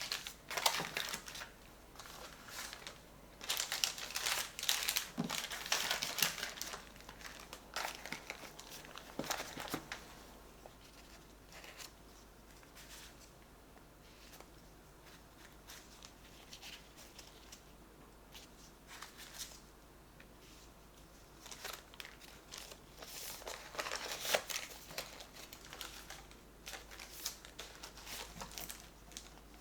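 Plastic food packaging and storage bags crinkling and rustling as food is handled and repacked, in two busy spells with a quieter stretch between.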